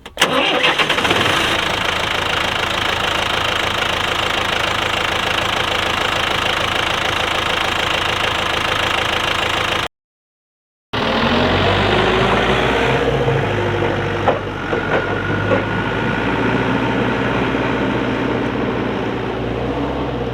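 Perkins diesel engine of a 1998 Linde H45D forklift starting right at the beginning and running steadily. The sound cuts out for about a second just before halfway. The engine then runs on with a deeper hum, a few sharp knocks and a faint steady whine.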